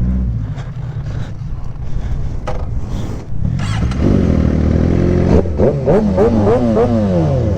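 Suzuki GSX-R 600 inline-four engine running on the move. It gets louder and revs up from about halfway, then the revs rise and fall several times and wind down near the end.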